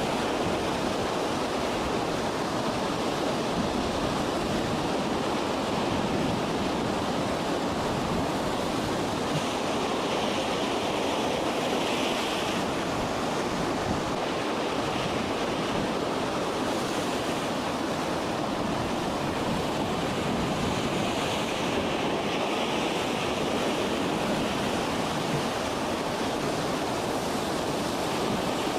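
Steady, unbroken noise of storm wind and heavy sea, with wind buffeting the microphone.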